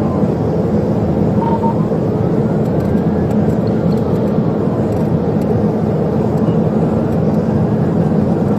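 Police cruiser driving at pursuit speed: a loud, steady rush of road and engine noise, with a wailing siren faintly rising and falling in slow sweeps over it. A short beep sounds about a second and a half in.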